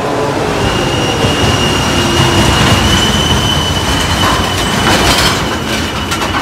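Heavy trucks grinding up a steep grade: a deep engine rumble and road noise, with a steady high-pitched squeal that starts about half a second in.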